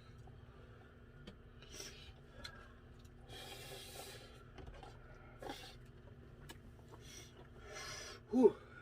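Quiet eating sounds from spicy ramen: short breathy sniffs and exhales, the longest about three seconds in, with a few small clicks, then a brief voiced grunt near the end.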